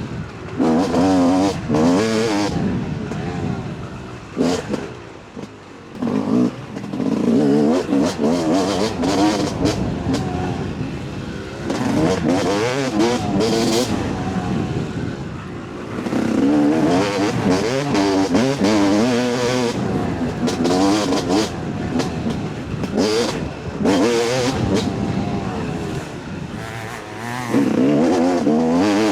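Two-stroke 250 cc dirt bike engine on a trail ride, revving up and down in repeated throttle surges, easing off briefly a few times.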